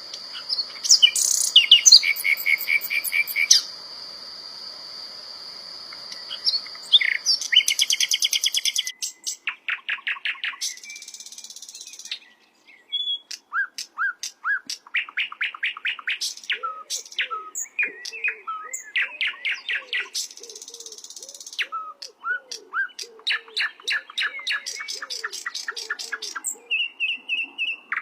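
Sikatan londo flycatcher singing: phrases of rapid, evenly spaced chirps and trills broken by short pauses. A softer, lower repeated note runs under the song through the second half.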